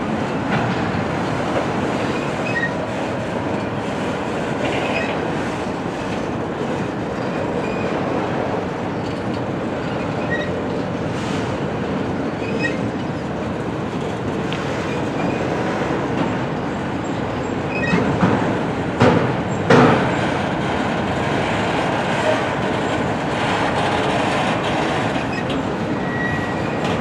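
Freight train cars rolling past, with steady wheel and rail rumble and clatter and brief wheel squeals. A few louder knocks or bangs come near the two-thirds mark.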